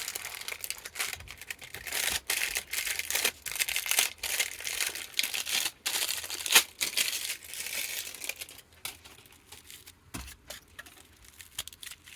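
Packaging crinkling and rustling as it is handled, in quick uneven bursts for about the first eight seconds, then quieter with a few light clicks and taps.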